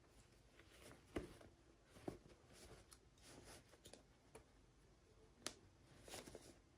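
Faint handling of toy packaging during an unboxing: three soft clicks spread out, with light rustling between them.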